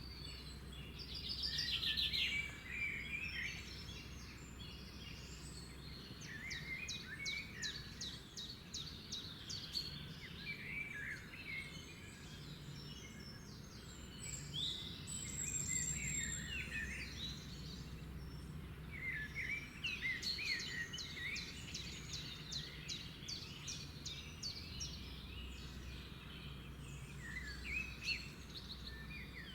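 Several songbirds singing and chirping, with rapid trills of repeated notes and a clear high whistle about halfway through, over a steady low background hum.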